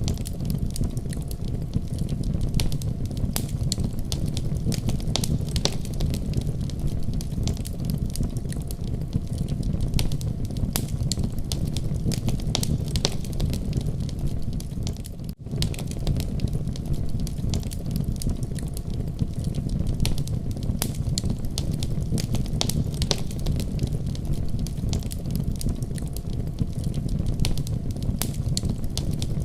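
Wood fire crackling, with many sharp irregular pops over a steady low rumble. The sound cuts out for an instant about halfway through.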